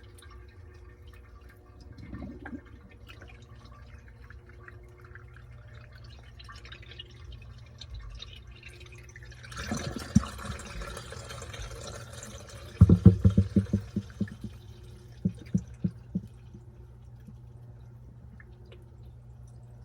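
Washing machine washing a load of towels: a steady low motor hum with water sloshing, a rush of water about halfway through, then a quick run of sharp knocks as the load turns over.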